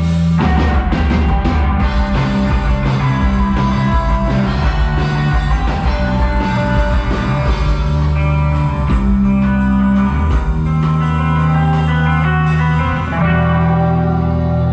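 A rock band playing live: electric guitar over bass and a drum kit, in a psychedelic-rock style with sustained guitar notes and a steady beat.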